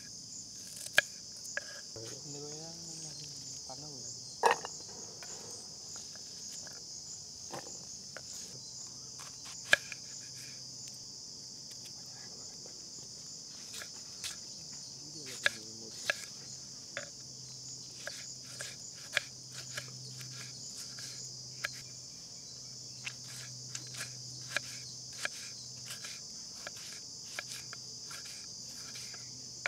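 Kitchen knife chopping on a wooden cutting board, cutting shallots and tomatoes in sharp separate taps that become a quicker, steady chop in the second half. Behind it, insects chirr steadily.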